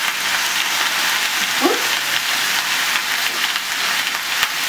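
Chicken pieces sizzling as they fry in oil in a pan: a steady crackling hiss.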